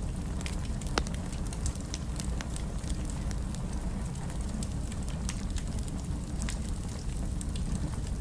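Wood fire crackling in a fireplace: a steady low rumble of flames with scattered sharp pops, one louder pop about a second in.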